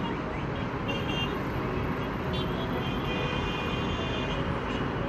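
Steady road traffic noise, with faint music over it.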